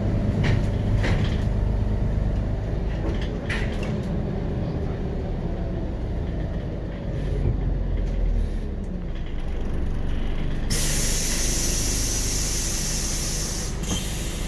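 Scania DC9.01 five-cylinder diesel of a 2003 Scania Omnicity city bus running, heard on board, its note falling a few seconds in. About ten seconds in, a loud sustained hiss of compressed air released from the bus's pneumatic system starts and carries on.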